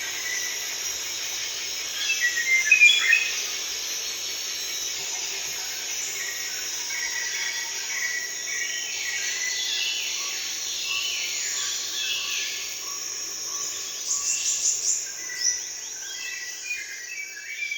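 Forest ambience: a steady high-pitched insect drone with many birds chirping and calling over it. The loudest bursts of calls come about two to three seconds in and again near the end.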